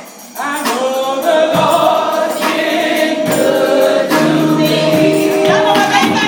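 Gospel choir singing with accompaniment and a steady percussive beat, coming in after a brief lull about half a second in.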